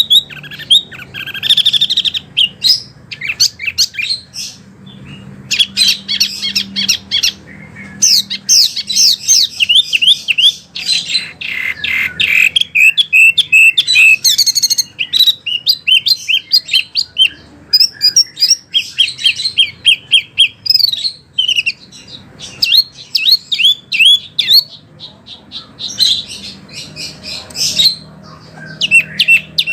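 Wambi songbird singing a fast, varied song of sharp chirps and quick trills in bursts separated by short pauses.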